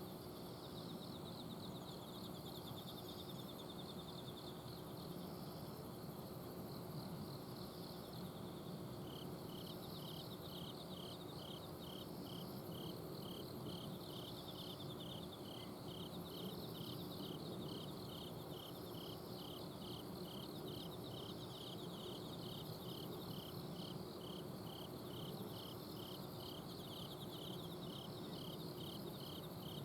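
Autumn insects singing at night: several crickets and similar insects, with a continuous high trill and, from about nine seconds in, a regular chirping of roughly one to two chirps a second. Beneath them runs the steady hum of an air conditioner's outdoor unit.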